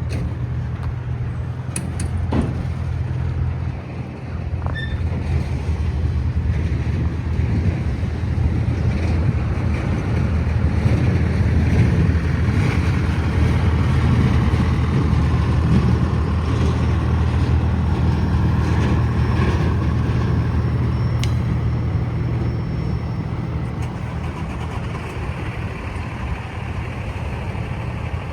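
Engines of track maintenance vehicles running as they move off, a steady low hum that swells toward the middle and eases a little toward the end.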